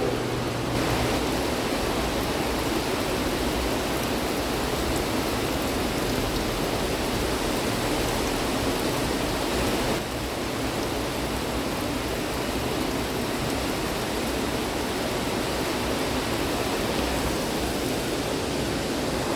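Heavy storm rain pouring steadily, a dense even hiss, with a slight drop in level about ten seconds in.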